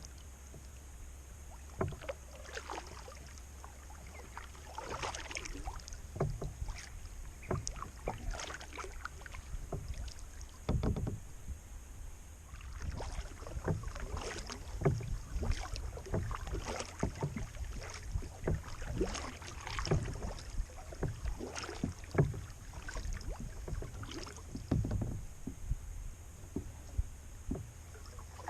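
Kayak paddle dipping into the water, with irregular splashes and drips that start about two seconds in and come more often in the second half, over a steady low rumble.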